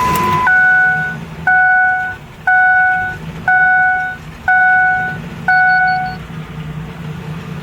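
Six steady two-tone electronic beeps, about one a second, over the 2005 Ford Explorer's engine idling with a steady low hum; the engine is running rough.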